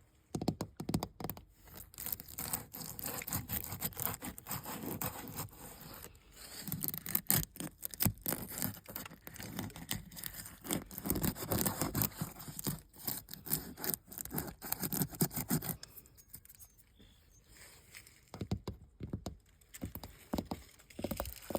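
Old, flaking paint being scratched and peeled off a building's surface by hand: dry scraping and tearing with many small crackling snaps. It eases off for a few seconds near the end, then picks up again.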